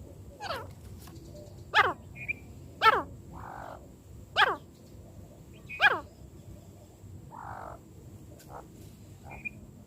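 Francolin (teetar) calling: five loud calls about a second and a half apart, each a quick sweep falling steeply in pitch, with a few faint short chirps in between.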